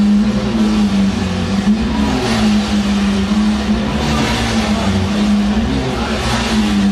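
Lamborghini Aventador's V12 engine running at fairly steady revs, with a brief swell in revs about every two seconds.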